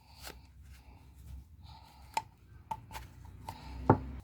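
Small clicks and taps of a pick and the oil filter housing cap being handled as the old sealing rings are pried off, with one sharp click about two seconds in and a louder knock near the end.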